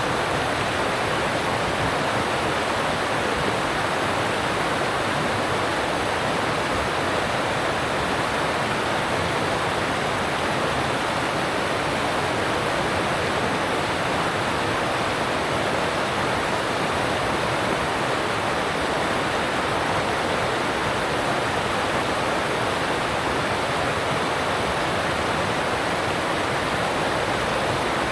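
Alpine mountain stream rushing steadily over rocks, a dense, even rush of water without a break.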